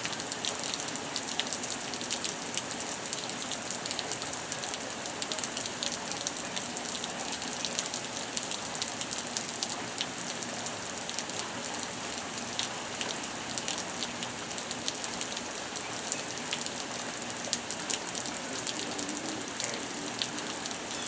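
Thunderstorm rain falling steadily, a continuous hiss of drops with many small sharp patters throughout.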